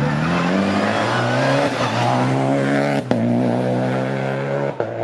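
Rally car engine accelerating hard on a special stage, its pitch climbing, with a sharp crack about three seconds in and another near the end.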